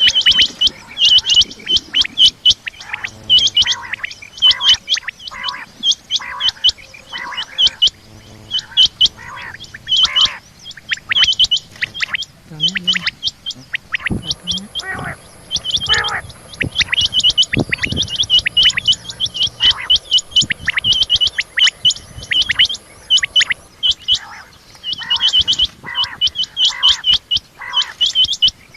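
Female rain quail calling: quick runs of short, sharp, high-pitched notes, repeated over and over with brief pauses between runs.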